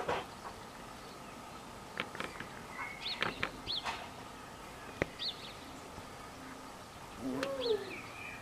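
Several short bird chirps over quiet outdoor background, with a few sharp clicks and a faint steady high tone. Near the end comes a louder, lower sliding call.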